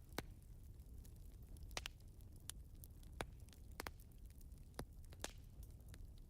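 Wood fire in a fireplace crackling, with irregular sharp pops, a few louder than the rest, over a low steady background noise.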